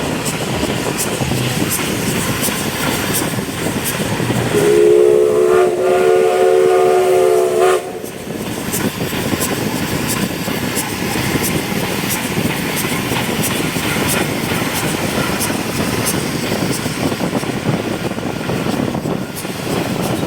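Steam locomotive whistle blowing one long chord of several notes for about three seconds, starting a few seconds in and cutting off sharply, over the steady rumble of the train running on the track.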